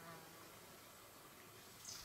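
Near silence with faint outdoor ambience: a faint, brief buzz at the start and one short, high bird call near the end.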